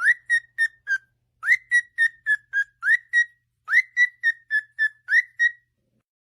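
A bird whistling a quick run of short notes at about the same pitch, several starting with an upward slide, in three runs with short pauses between.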